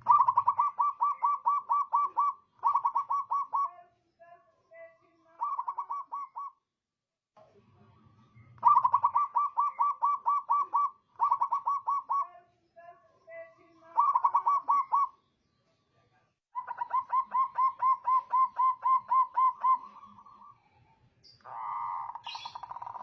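Zebra dove (perkutut) singing: a series of cooing phrases, each a fast run of short, evenly spaced notes at about five a second, repeated eight times with short pauses between them.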